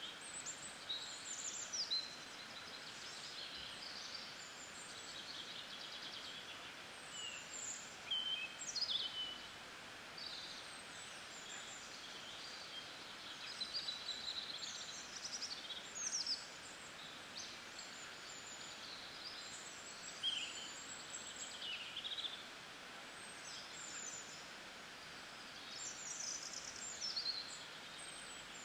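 Small birds chirping and singing in short high calls and quick falling sweeps, one every second or two, over a steady hiss.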